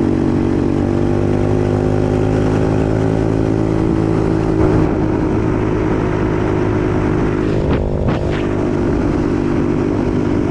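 125cc dirt bike's single-cylinder engine running steadily under way, its note easing slightly over the first few seconds, with a couple of short knocks about eight seconds in.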